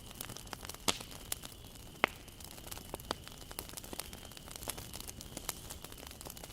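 Wood fire crackling: irregular sharp pops and snaps from burning wood over a soft steady hiss, with two louder pops about one and two seconds in.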